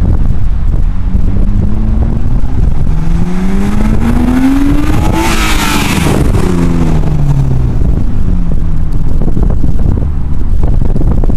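1992 BMW 325is's 2.5-litre straight-six with a Magnaflow exhaust, accelerating with its pitch rising for about four seconds. It is loudest a little past halfway as it passes, then the pitch falls away as it recedes. Heavy wind rumble on the microphone throughout.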